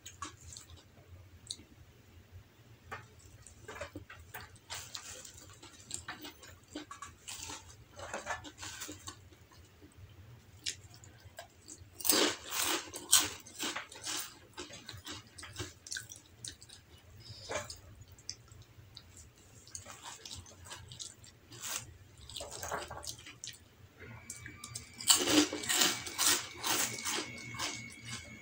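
Close-miked chewing and wet mouth sounds of a person eating rice with their hands, a run of small smacks and clicks, with louder crunchy bites about twelve seconds in and again near the end.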